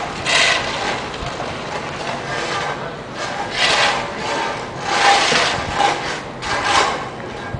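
Irregular rough scraping strokes, one every second or two over a steady background rumble.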